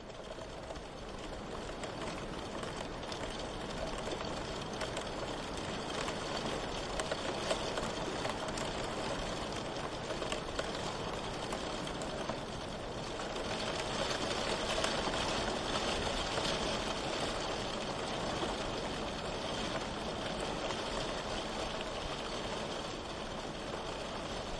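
Steady rain falling, a dense hiss of drops that swells up over the first couple of seconds and grows a little louder around the middle.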